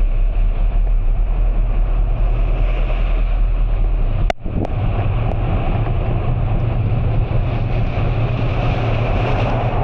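Steady low rumble of a vehicle on the move, with road and rain noise, interrupted about four seconds in by a sharp click and a momentary drop in sound.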